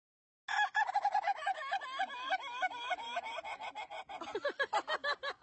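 Many birds calling at once, a dense chorus of short, overlapping chirps that starts suddenly about half a second in and turns into quick repeated notes near the end.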